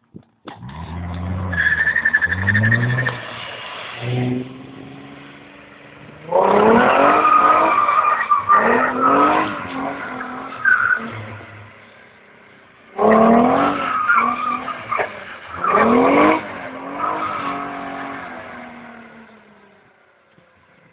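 Nissan 300ZX's V6 revving hard in three long bursts while it drifts on wet tarmac, its note rising and falling with each throttle stab. The engine fades away near the end.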